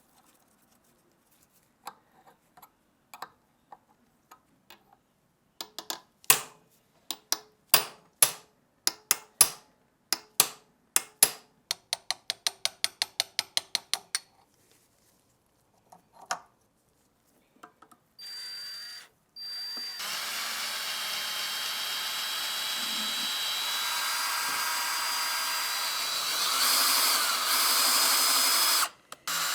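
A string of sharp clicks and taps, quickening to several a second near the middle. Then an electric power tool starts up and runs steadily with a high whine, pausing briefly just after it starts and again near the end.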